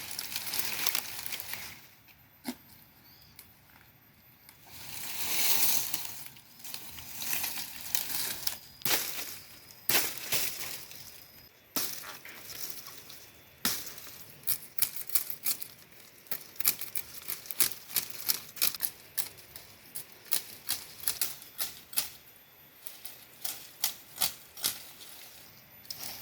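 Dry plant material rustling and crackling as it is pushed through or handled, with a few swishes early on and many irregular sharp snaps and crackles in the second half.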